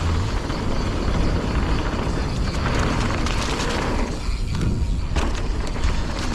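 Mountain bike riding fast down a dirt trail: a steady rush of wind buffeting the camera microphone over tyre and trail rumble, with a few sharper knocks and rattles from the bike, one about five seconds in.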